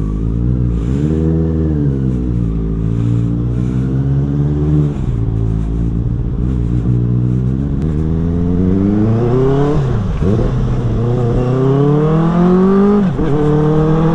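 Benelli motorcycle with a modified exhaust under way, its engine revving up through the gears: the pitch climbs, drops sharply at an upshift a little before two-thirds of the way in, climbs again, drops at a second upshift near the end and rises once more. Early on the revs dip and rise briefly.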